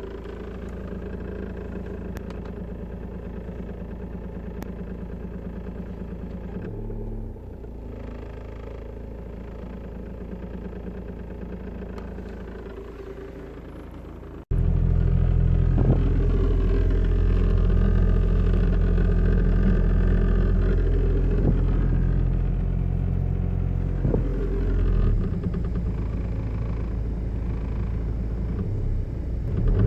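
VW Passat B5 engine running steadily at idle, with an unidentified knock somewhere in the engine bay that the owner is trying to track down. About halfway through, the engine sound suddenly becomes much louder and fuller.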